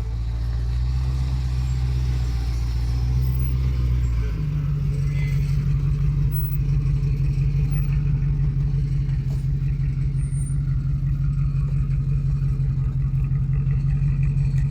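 A 2003 Land Rover Discovery 2's engine running with a steady low drone; about four seconds in its note shifts up to a slightly higher, even hum and stays there.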